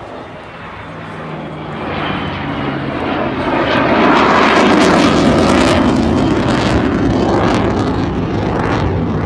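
Jet aircraft roaring past overhead. The noise swells over the first few seconds, peaks about halfway through and stays loud.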